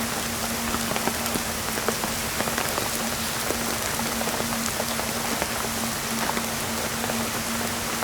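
Heavy rain falling, with many individual drops ticking sharply close by, over a steady low hum.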